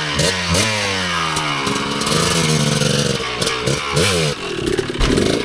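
Dirt bike engine revving hard, its pitch rising and falling again and again as the bike is worked over a slick log on the trail.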